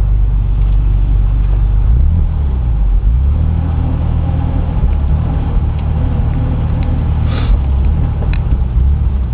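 Car engine and road noise heard from inside the cabin: a steady low drone that steps in pitch about two seconds in.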